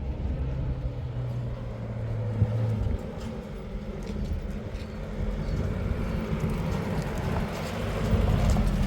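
Car engine running with a steady low hum; the sound drops a little about three seconds in and grows louder again near the end.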